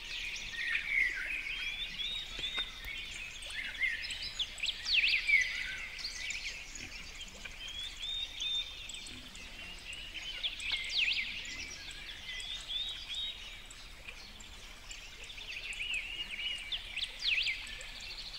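Small birds chirping and twittering: many short, high chirps and quick sweeping notes overlapping in a continuous chorus, over a faint steady hiss. The chirps come thickest about four to six seconds in and again near the end.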